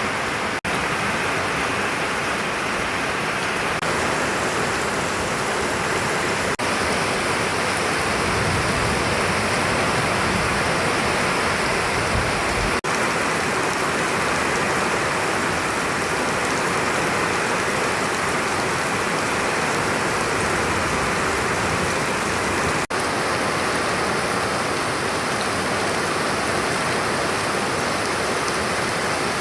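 Steady heavy rain falling, a constant even hiss, with a low rumble underneath for a few seconds in the middle and a few momentary dropouts.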